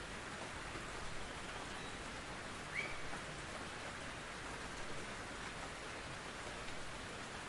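Steady rain falling in a forest, with a brief high chirp about three seconds in.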